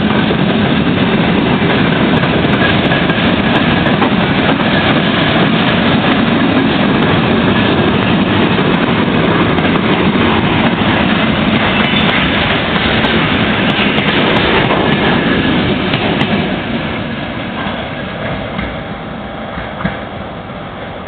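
Freight train rolling past close by, its wheels clattering over the rails in a loud, dense rumble that falls away over the last few seconds as the train moves off.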